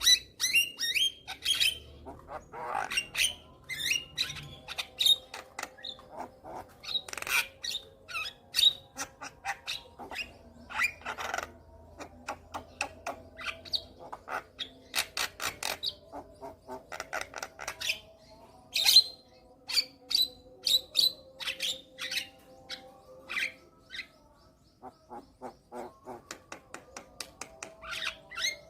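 Javan myna (jalak kebo) calling in runs of rapid, harsh chattering and clicking notes, with short pauses between the runs.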